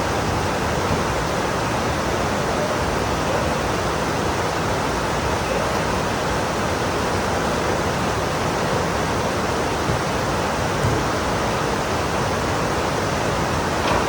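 Heavy rain pouring down, a steady dense hiss with no break.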